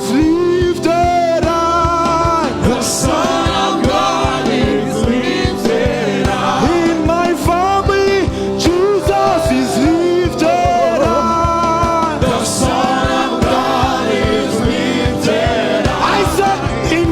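Gospel worship music: a wavering sung vocal line over sustained chords and a steady drum beat.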